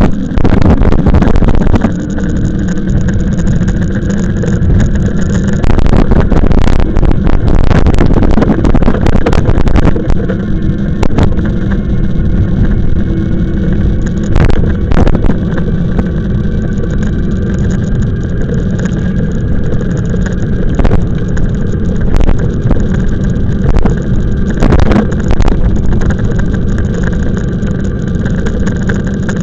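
Ride noise from a moving e-bike: wind buffeting the microphone and road rumble, with frequent short clicks and rattles from bumps. A faint steady whine runs underneath.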